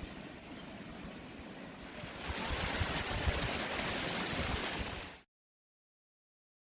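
Steady rushing of water from a waterfall. It jumps louder about two seconds in, then cuts off abruptly a little after five seconds.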